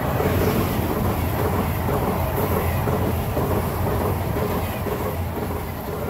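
A Deutsche Bahn ICE high-speed train passing close by at speed: a loud, steady rush of wheels on rail with an even, repeating clatter as the wheelsets run over the track. It begins to fade near the end as the rear of the train goes by.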